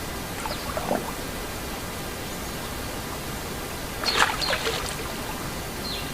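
Steady rushing water noise, like a stream. Over it come a few short chirps falling in pitch, and about four seconds in a brief louder cluster of sharp sounds.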